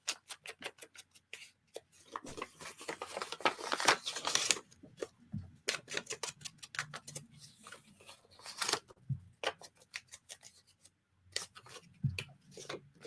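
Paper being worked by hand at a craft table: a quick run of sharp clicks, then scattered clicks and scratchy rustling swells.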